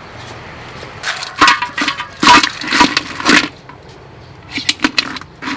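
Blue crabs' hard shells clattering and knocking against one another and the pot as they are put in for boiling. A quick run of sharp knocks comes about a second in, and a few more near the end.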